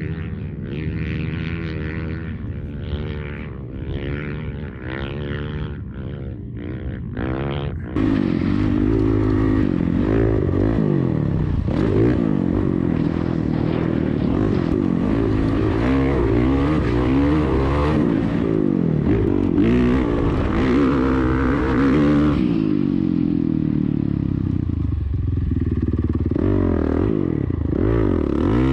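Dirt bike engine revving up and down over and over as it is ridden. About eight seconds in it becomes much louder, and it keeps rising and falling in pitch.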